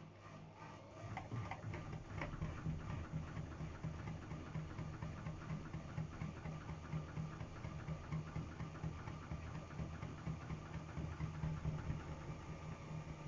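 Matura Sigma 9260 washing machine running: a steady motor hum with a regular ticking over it, growing louder about a second in.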